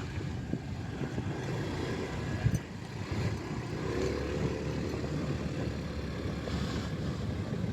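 Motorcycle underway on the road: steady engine rumble mixed with road and wind noise, with one sharp knock about two and a half seconds in.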